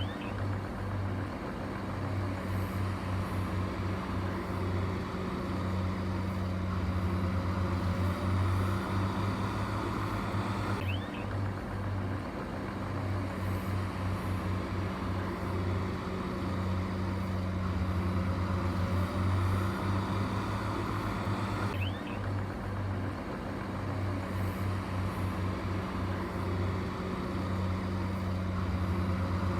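Heavy diesel engine of construction machinery running steadily, with a pulsing low rumble. The sound shifts abruptly about every eleven seconds, and the same stretch seems to repeat.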